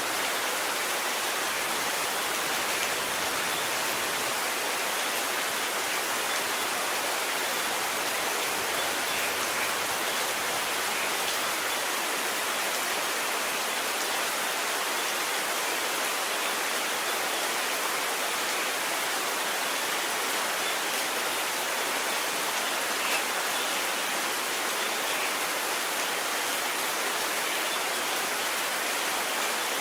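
Steady rain falling, an even hiss that holds at the same level throughout, with no thunder.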